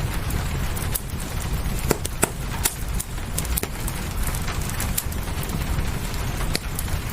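Wood fire crackling, with sharp pops every second or so over a steady hiss of rain and a low rumble.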